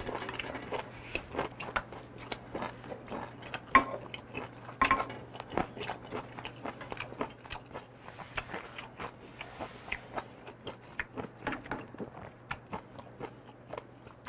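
Close-miked chewing of a mouthful of aged kimchi (mukeunji) wrapped around chopped raw octopus, beef and abalone: a steady run of irregular wet crunches and mouth clicks.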